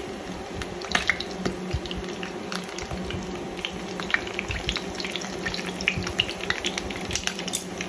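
Halved long eggplants sizzling in hot cooking oil in a frying pan, a steady hiss dotted with many small crackling pops.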